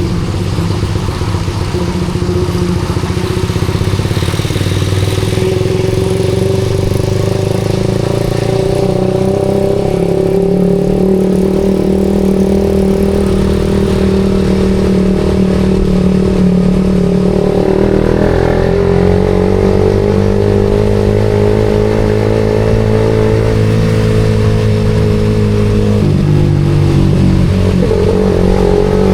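Suzuki GSX-R150's single-cylinder engine running through a SARP aftermarket exhaust while riding. The engine note holds fairly steady, climbs slowly in pitch over the second half, then drops suddenly near the end.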